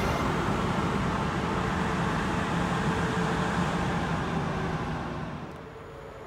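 Electric train rolling past on the rails, its rumble fading away about five seconds in.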